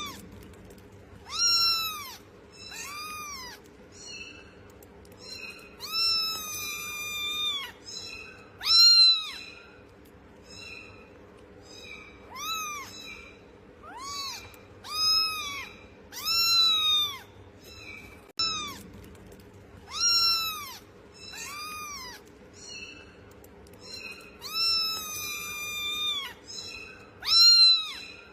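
Cat meowing over and over, roughly one meow every second or two. Each meow rises then falls in pitch, and a few are drawn out longer. A faint steady hum runs underneath.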